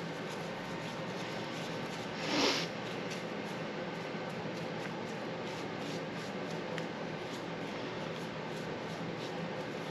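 Paintbrush strokes brushing paint onto an engine: faint scratchy brushing over a steady background hiss, with one louder brief rustle about two and a half seconds in.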